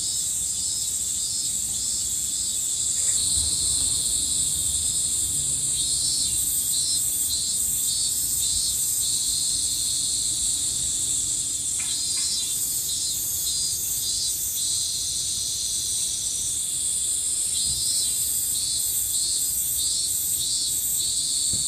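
Chorus of summer insects: a steady high-pitched drone, with overlapping calls that pulse a few times a second in repeated phrases.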